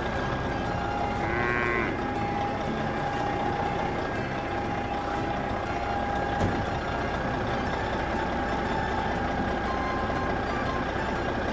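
Toy construction vehicle's electronic engine sound effect playing steadily from its small speaker. About one and a half seconds in there is a short wavering horn-like tone, and about six and a half seconds in a light knock.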